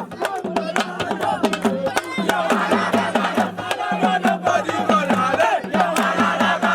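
Fast hand drumming with a crowd of voices singing and chanting along.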